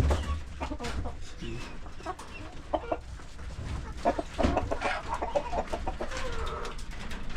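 Laying hens clucking and calling, with scattered short clicks and knocks among them.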